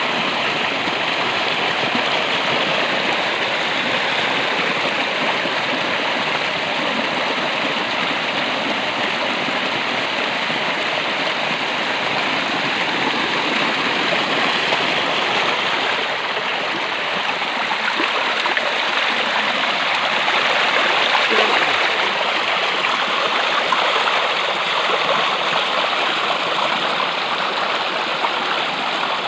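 Stream water rushing in a steady, even flow, swelling a little about twenty seconds in.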